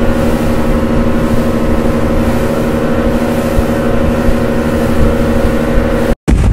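Motorboat engine running steadily at cruising speed, a constant hum over rumbling wind and water noise. It cuts off abruptly near the end and gives way to wind and waves.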